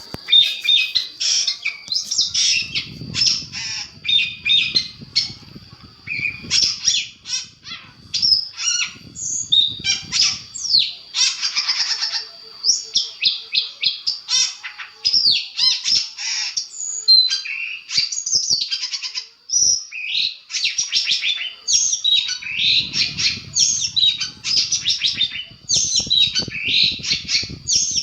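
Long-tailed shrike (cendet) singing a fast, unbroken song of rapid trills, chattering phrases and harsh squawking notes. A low rumble sits underneath in a few stretches.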